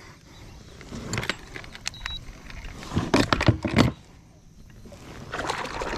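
Light clicks, rattles and knocks of gear being handled aboard a fishing kayak, loudest in a cluster about three seconds in.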